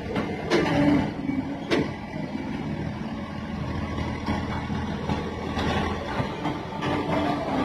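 Crane's diesel engine running steadily under a lift, with two sharp metallic knocks in the first two seconds.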